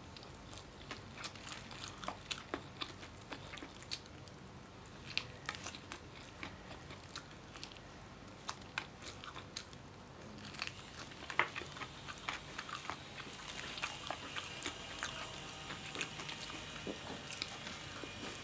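Close-up eating sounds: biting and chewing chicken and rice, with many small sharp clicks and smacks. A steady hissing background grows louder in the second half.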